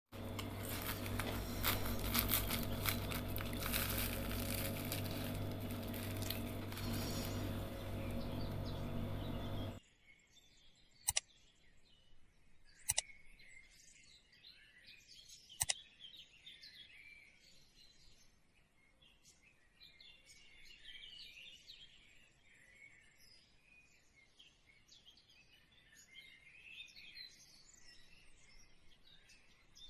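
A loud crackly noise with a steady hum for about the first ten seconds, cutting off suddenly; then faint bird chirping and twittering, broken by three sharp clicks.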